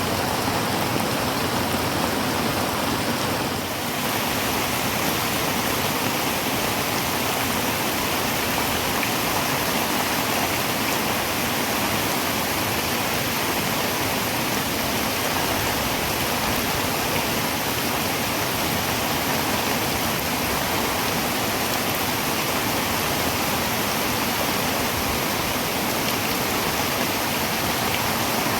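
Heavy rain drumming on a tin roof: a dense, steady hiss of rain with no separate drops standing out.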